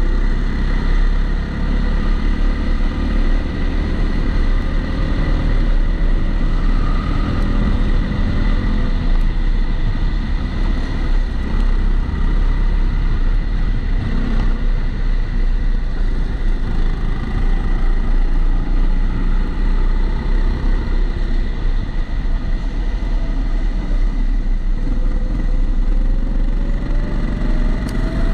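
Kombikart Eco kart engine heard onboard, running under load and revving up and down with the laps, its pitch climbing slowly near the end. The sound is dulled by a waterproof camera housing, and a steady thin high tone runs underneath.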